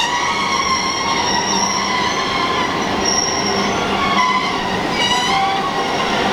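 Rhaetian Railway train on the Bernina line running over the rails, its wheels squealing with several high, shifting tones on curved track, with a short rising squeal about five seconds in.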